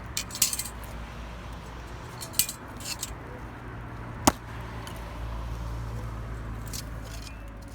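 Light clinks and clatter of cookware and utensils being handled: a few separate knocks and rattles, with one sharp click about four seconds in, over a steady low rumble.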